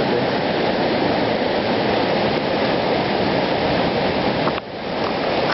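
Floodwater from a hurricane-swollen river rushing over flooded fields and roads: a loud, steady rush that dips briefly near the end.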